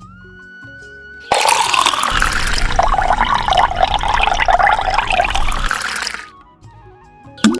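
Water gushing and splashing, starting suddenly about a second in and running for about five seconds before fading out, over background music.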